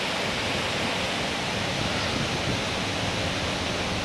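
Steady rushing noise, like wind or moving water, spread evenly from low to high pitch.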